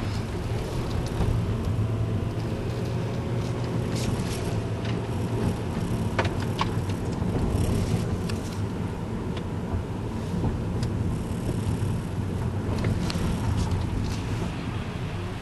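Car driving, heard from inside the cabin: a steady low road and engine rumble, with scattered sharp clicks now and then.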